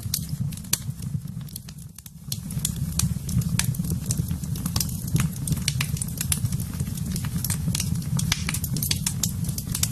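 Wood fire in a fireplace crackling, with frequent sharp, irregular pops over a steady low rumble of the flames. The sound briefly drops away about two seconds in.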